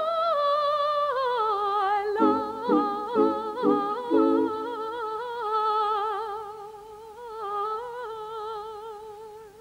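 Voices singing wordlessly a cappella in place of instruments: a high voice holds long notes with vibrato, stepping down in pitch about a second in, while lower voices add a few short staccato notes in the middle, then the sound fades.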